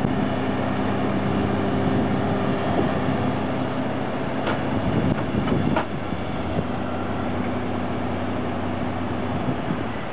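Heavy vehicle engine running steadily, with a stretch of rough rattling and a few sharp clanks midway.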